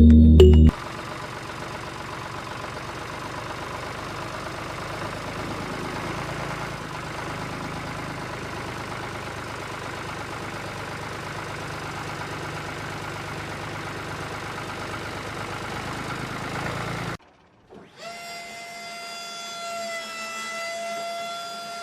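Small motor of a homemade miniature flour mill running steadily with a mechanical rattle; after a brief cut about 17 seconds in it returns as a steady, higher whine.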